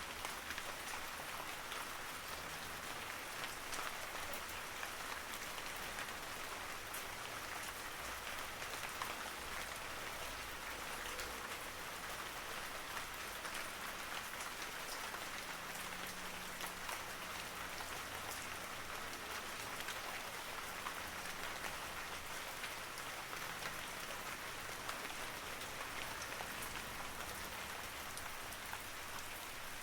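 Steady rain falling, with an even hiss and many small drop ticks on a surface.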